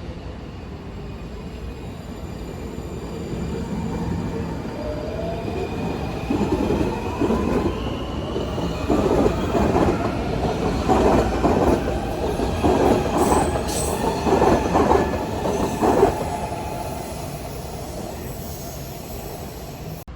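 A train passing on rails: the rumble builds, then groups of wheel clacks over the rail joints go by for about ten seconds, with a thin squeal of wheels on the rails above them. It fades near the end.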